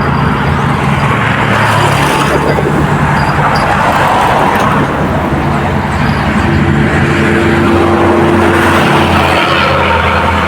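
Steady motor-vehicle engine and road traffic noise, with a held engine tone rising above it for a few seconds around the middle.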